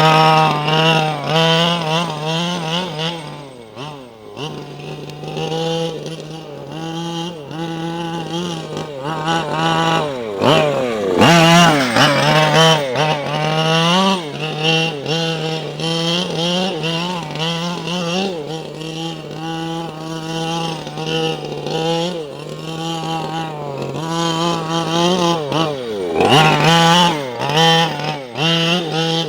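A tractor engine revving and easing off over and over while driven hard, its pitch swinging up and down, with deeper drops a few seconds in, around the middle and near the end.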